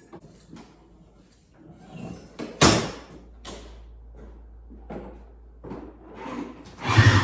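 Snowmobile being started: a sharp clatter about two and a half seconds in, then a low steady engine hum, with a louder rough burst near the end.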